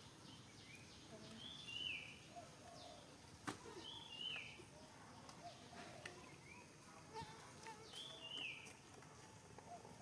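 A bird repeating a short two-note call every two to four seconds over faint outdoor background noise, with a single sharp click about three and a half seconds in.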